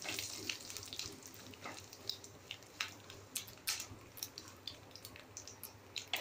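Peanuts, mustard seeds and cumin frying in a little oil in a kadai: a soft, steady sizzle broken by irregular sharp pops and crackles as the seeds and nuts roast, while a spatula stirs them.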